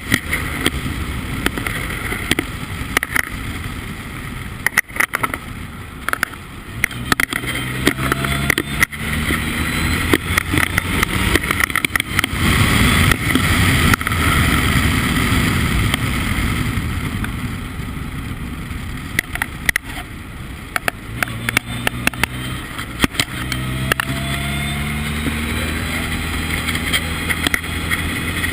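Formula Ford race car engine running hard at speed, its pitch climbing twice as the car accelerates, over a constant rush of wind and road noise with frequent short knocks.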